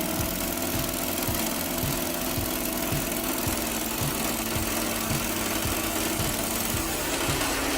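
Chainsaw engine running steadily, with a low thud repeating about twice a second.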